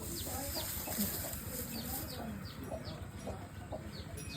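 Chickens clucking, with many short high chirps falling in pitch, a few each second.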